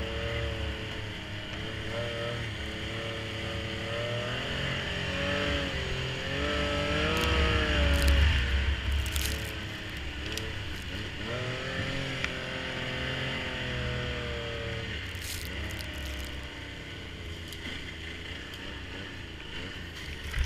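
Snowmobile engine running, its pitch rising and falling with the throttle, loudest about eight seconds in.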